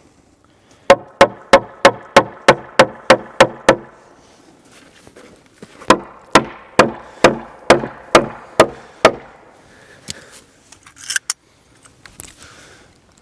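Hand hammer driving nails into a wooden fence board. Two runs of quick, evenly spaced blows, about ten and then about eight, a couple of seconds apart, with a few lighter knocks near the end.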